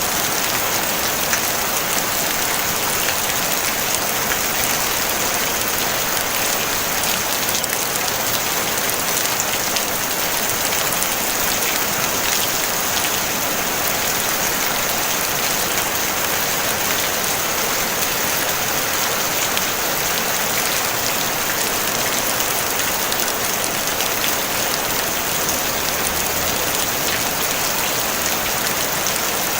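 Steady rain falling on a tin roof: a dense, even hiss sprinkled with fine drop ticks, with no thunder.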